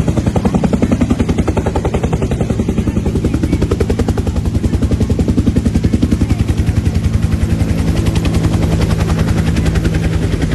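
Helicopter close by, its main rotor beating in a rapid, even chop over a steady low engine hum, growing slightly louder near the end.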